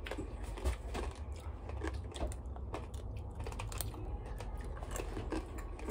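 Someone chewing tanghulu, the sugar coating on the fruit set hard and cracking in many small, scattered crunches.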